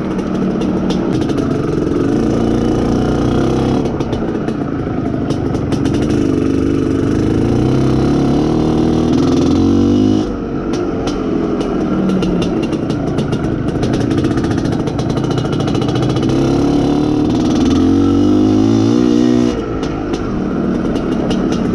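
Izh Planeta Sport's single-cylinder two-stroke engine running as the motorcycle is ridden and the engine is run in. Its pitch climbs under acceleration and drops sharply when the throttle is shut, about ten seconds in and again near the end.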